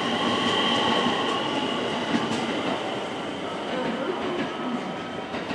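Electric limited-express train running along a station platform: steady rumble of wheels on rails, with a high steady whine over it that fades away near the end.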